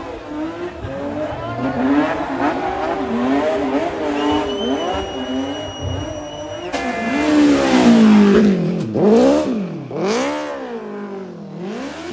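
Rally car engines revving hard, pitch rising and falling with throttle and gear changes, with a steady high whistle for a couple of seconds in the middle. About two-thirds of the way in, a louder car comes in close, its revs dropping and climbing sharply twice as it passes.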